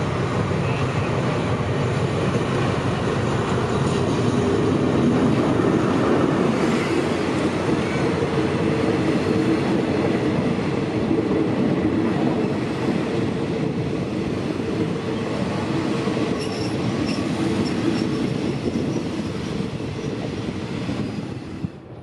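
Passenger train rolling along the rails: a steady rumble of wheels and carriages with a few faint wheel squeals, easing off near the end.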